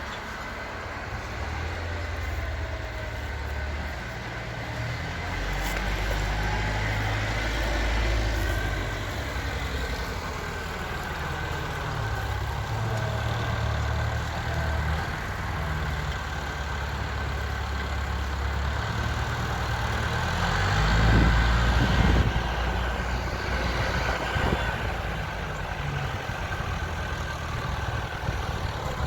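Tractor engine running steadily, with a louder swell about two-thirds of the way through.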